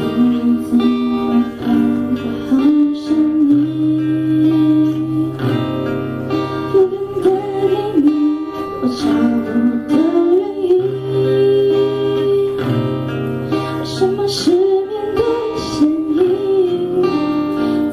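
Acoustic guitar playing a song's introduction live, strummed chords with a bass line under them.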